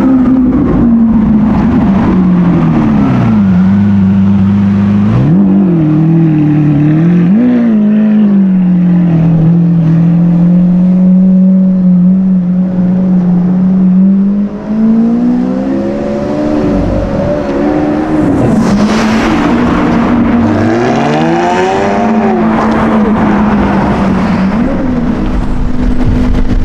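Sports car engine idling with an even note, blipped several times: short revs about five to eight seconds in and a bigger rev a little after twenty seconds.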